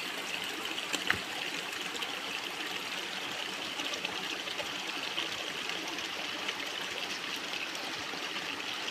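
Running water trickling and flowing steadily, with one sharp click about a second in.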